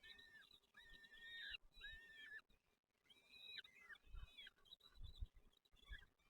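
Small birds calling: a run of short, even-pitched calls, each about half a second long, repeated six or seven times, with a few soft low thumps in the second half.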